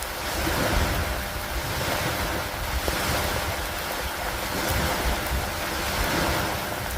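Steady rain falling on an old wooden dock, with a deep rumble underneath.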